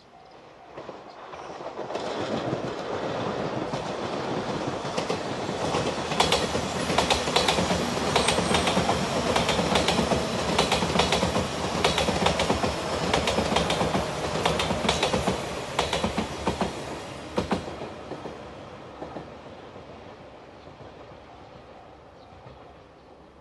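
JR Shikoku express train passing close by at speed, its wheels clattering over rail joints. The sound builds over the first two seconds, stays loud for about fifteen seconds, then fades away.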